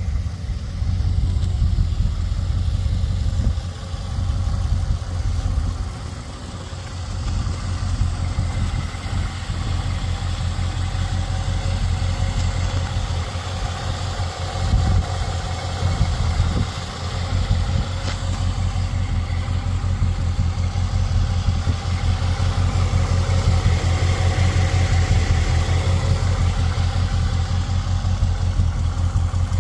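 Engine of a 1933 Ford 5-window coupe idling, a steady run of low exhaust pulses.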